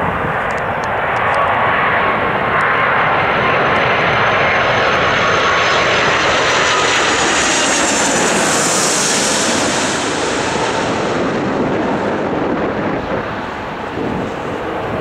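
Jet airliner passing close on landing approach: a steady rushing engine noise with a thin high whine that builds to a peak about nine seconds in, then fades.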